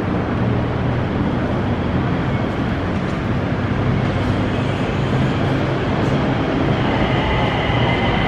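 BTS Skytrain electric train approaching an elevated station platform: a steady rumble, with a high steady whine from the arriving train joining near the end.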